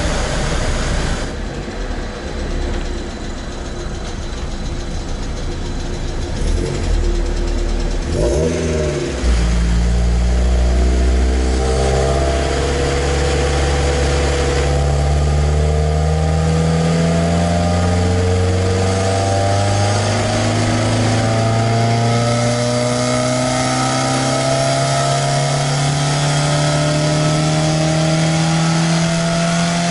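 Mazda MX-5 Miata race car's four-cylinder engine under load on a chassis dyno. After some lower running and a short rev, the engine goes to full throttle about nine seconds in. Its note then climbs slowly and steadily in pitch as it pulls through the rev range in one gear for a power measurement run.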